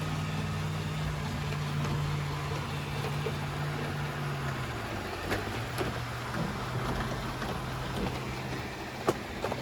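Robot vacuums running, a steady motor hum whose pitch drops a step about halfway through, with a few sharp clicks.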